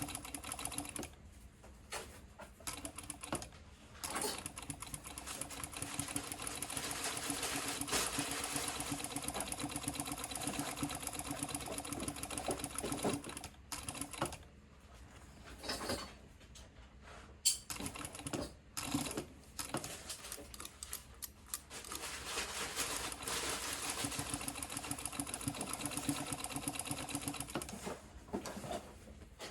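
Sewing machine fitted with a binder attachment, stitching fold-over bias binding in runs. A brief run opens, then a long steady run from about four to thirteen seconds, a few short bursts, and another long run near the end, with quiet pauses between.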